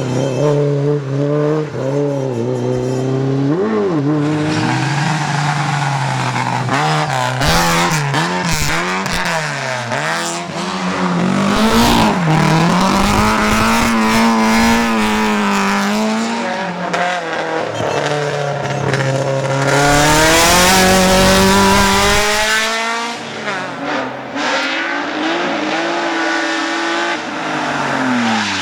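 Rally car engine at full race revs, its pitch climbing and falling again and again through gear changes and lifts. About twenty seconds in, a loud rushing burst of noise of tyres squealing and skidding lasts a few seconds.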